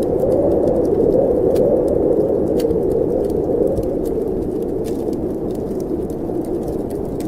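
Wind of a snowstorm blowing steadily, with a low howl that swells slightly and eases, over a wood fire crackling with scattered sharp pops.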